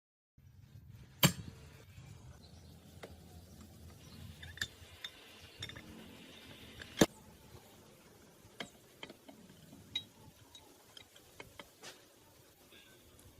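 Metal jack parts being handled, clinking and tapping against each other and a work surface: scattered light clicks, with two sharp clinks about a second in and about seven seconds in.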